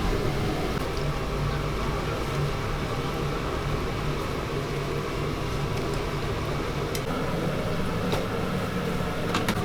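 Steady mechanical hum with a low drone, and a few faint clicks near the end.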